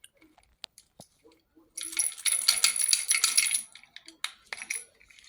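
A parrot's toy rattling as the bird grabs and shakes it: a few single clicks, then a dense burst of rattling that lasts about two seconds, and a few more clicks near the end.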